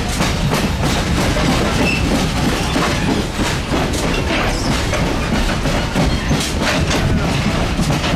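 A passenger train car riding along the track: a steady low rumble from the wheels on the rails, with scattered clicks and knocks over the rail joints.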